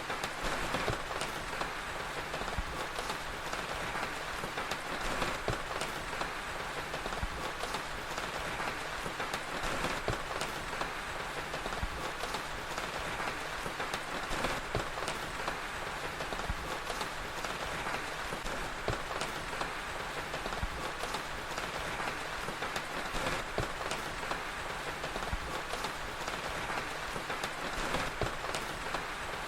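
Steady rain falling, with many small sharp crackles scattered through it from a wood fire.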